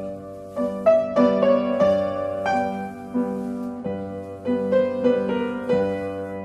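Piano playing ballet-class accompaniment for a barre exercise: a slow melody over chords struck at a steady, even pulse.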